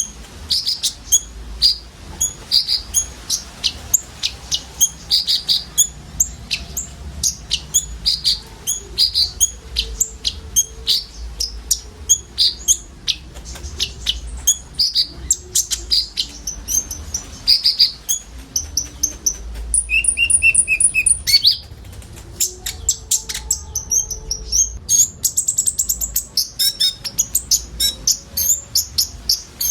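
Konin sunbird singing: fast series of sharp, high chirps, two or three a second, almost without a break, with one longer steady whistled note about two-thirds of the way through.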